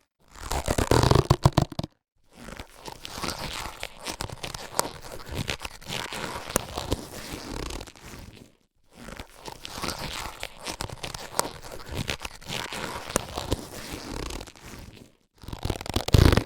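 Latex surgical gloves being handled and stretched: a louder, fuller burst at the start and again near the end, with long stretches of crackly rubbing and small clicks of the latex in between, broken by two brief silences.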